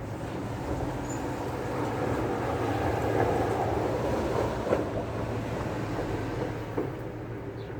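Low rumble of a passing vehicle, swelling to a peak about halfway through and fading again.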